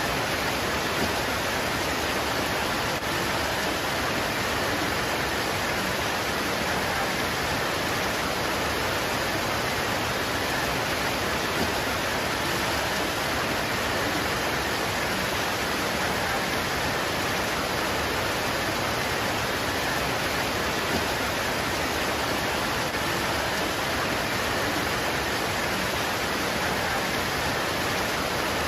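Steady heavy rain pouring onto leaves, a constant even hiss with no change in level.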